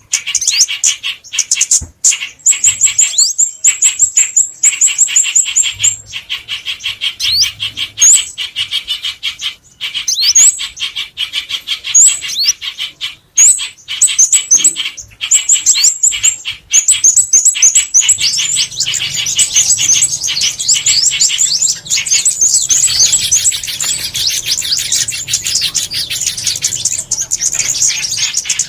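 Recorded calls of small songbirds: fast runs of high, thin chirps and short falling notes, repeated densely with hardly a break. This is a bird-call lure track for trapping.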